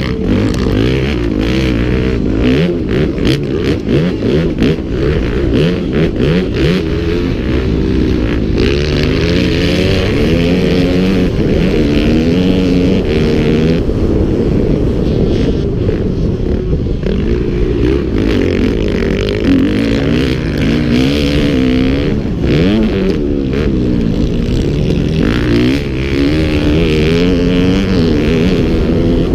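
Motocross bike engine revving hard, its pitch climbing and dropping again and again through throttle and gear changes.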